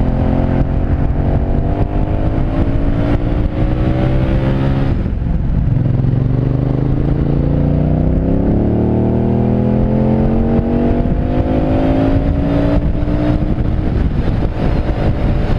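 Aprilia Caponord V-twin motorcycle engine accelerating on the road, its exhaust butterfly valve modified to stay open. The pitch climbs steadily, drops at a gear change about five seconds in, climbs again, and drops once more near the end.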